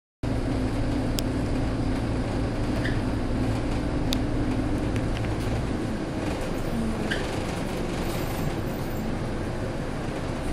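Scania K230UB bus engine running steadily amid road noise, its low engine note fading out a little over halfway through. A few short, sharp ticks sound over it.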